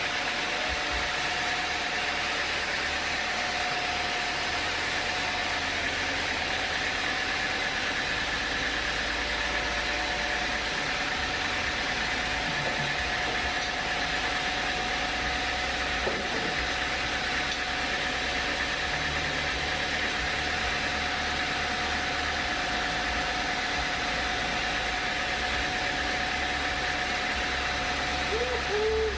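Sawmill machinery running steadily: a constant engine-like drone with a steady high whine over it.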